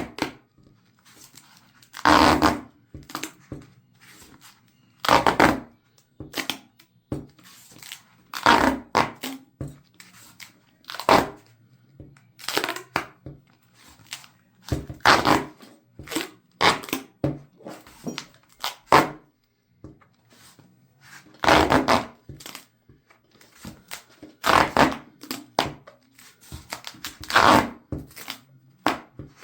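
Duct tape being pulled off the roll in a series of short rips, each lasting under a second, with quieter handling and crinkling of the tape in between.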